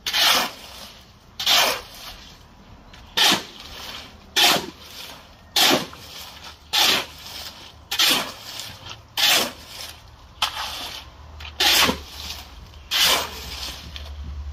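Shovel scraping through a concrete mix by hand: about eleven quick, rasping strokes, one every second or so.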